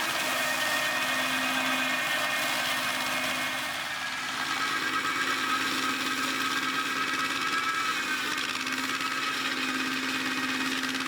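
Tractor and PTO-driven flail mulcher running steadily, with a held whine over the machine noise; the level dips briefly about four seconds in.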